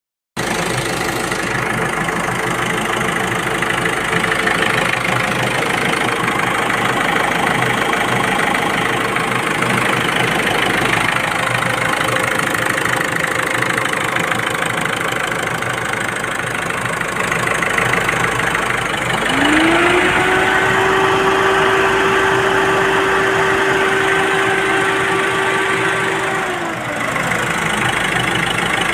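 Ford Freestyle's diesel engine running steadily at idle. About two-thirds of the way through it is revved up, held at higher revs for about seven seconds, then drops back to idle.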